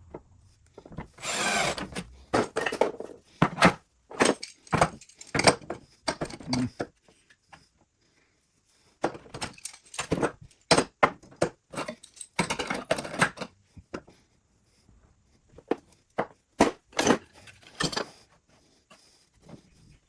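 Workshop handling noises: irregular knocks, clinks and short scrapes of tools and wood being picked up and set down, with a longer scraping sound about a second in and another a little past the middle.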